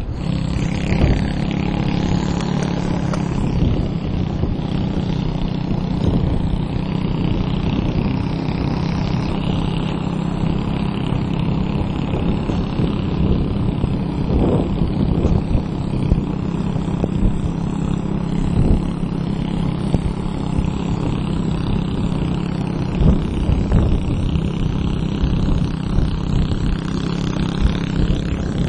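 Motorbike engine running at a steady pitch, pulling a load at a constant speed without revving up or down.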